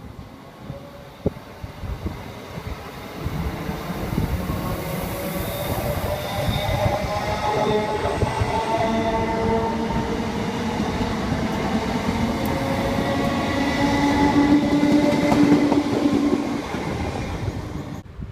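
A train passing on a main-line railway, its rumble growing louder over the first dozen seconds, with several steady whining tones over the wheel noise. The sound cuts off abruptly near the end.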